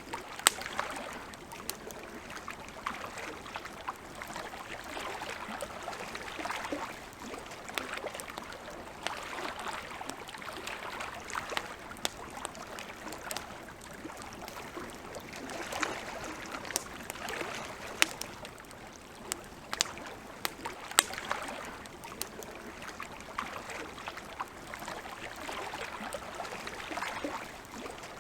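Wood campfire crackling, with irregular sharp pops and snaps over a softer hiss that swells and fades every few seconds.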